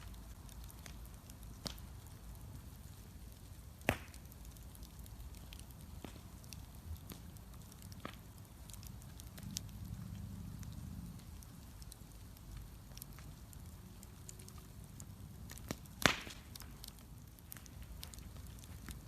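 Wood bonfire crackling, with scattered small pops and two louder sharp cracks, about four seconds in and again near the end.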